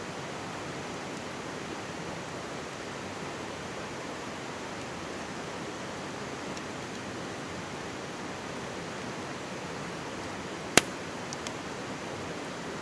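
Mountain stream babbling steadily. About three-quarters of the way through, the wood campfire gives one sharp pop, followed by two faint crackles.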